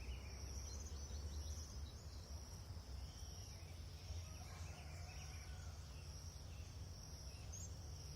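Field ambience: a steady high insect drone over a low wind rumble, with faint bird chirps now and then.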